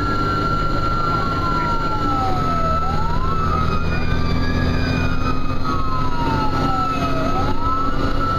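Fire engine siren on a slow wail, its pitch climbing for about a second and then sliding down for about three, twice over, alongside a steady high tone and the low drone of the truck's engine.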